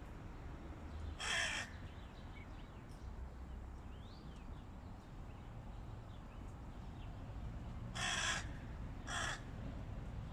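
Hooded crow cawing: one harsh caw about a second in, then two more in quick succession near the end.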